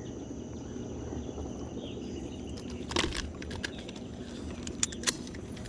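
A few sharp plastic clicks and knocks, about three seconds in and again near five seconds, as culling tags are handled, over a steady low hum with a thin high whine.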